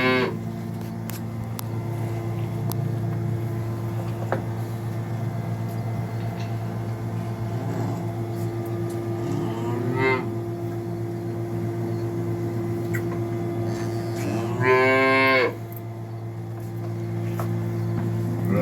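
Dairy cows mooing over a steady mechanical hum: a short moo about ten seconds in, and a louder moo lasting about a second near the end.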